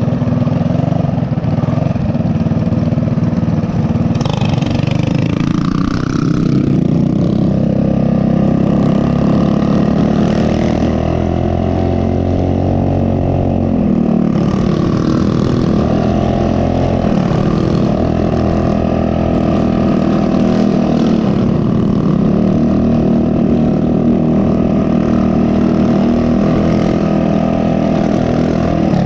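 Mini bike's small single-cylinder four-stroke engine running while riding, its pitch climbing as it speeds up, dropping sharply when the throttle comes off about halfway through, then climbing again and holding at cruising speed.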